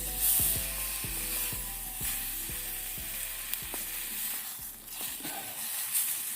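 Food sizzling as it fries in a pan, a steady crackling hiss, with soft plucked background music.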